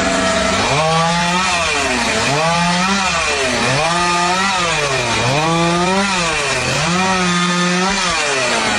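A motor running loud, its pitch rising and falling over and over about once a second, over a steady hiss. It starts and stops abruptly.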